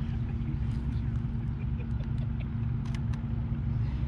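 Sport motorcycle engine idling with a steady low hum. A few faint clicks come about three seconds in.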